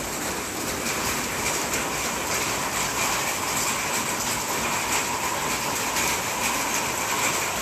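Rain falling, a loud steady hiss.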